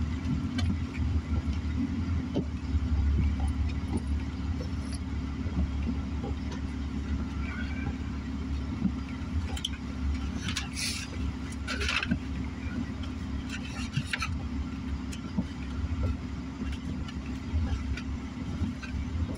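Car engine idling, heard from inside the cabin as a steady low rumble, with a few short clicks or rustles about halfway through.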